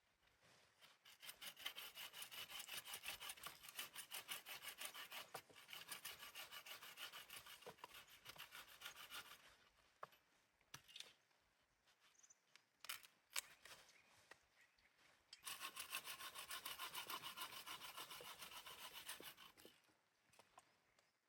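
A hand saw cutting wood in two bouts of quick, even strokes, with a pause of several seconds and a few sharp knocks between them.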